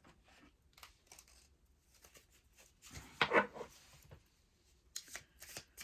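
A deck of oracle cards being handled and shuffled: scattered soft papery card strokes, a louder rustle about three seconds in, and a quick run of riffling near the end.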